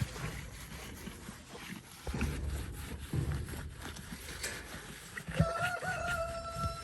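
Sponge scrubbing a chicken waterer in uneven strokes, then about five seconds in a rooster crows, one long held note that falls away at the end.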